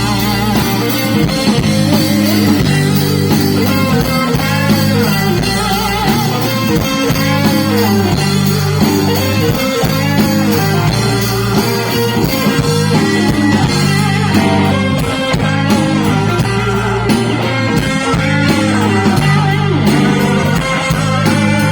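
Live rock band playing: an electric guitar solo with bending, wavering notes over the band's steady low end.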